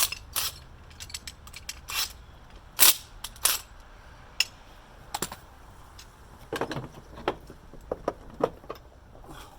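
Scattered sharp metallic clicks and clanks of tools and hardware being handled, irregular and unevenly spaced. The loudest comes about three seconds in, and there is a cluster of duller knocks near seven seconds.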